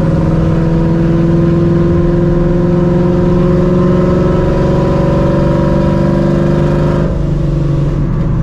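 Supercharged Ford 4.6 2V V8 in a Mustang GT running through open exhaust cutouts under light acceleration: a deep exhaust note that climbs slowly in pitch, then drops and steadies lower about seven seconds in as the revs fall.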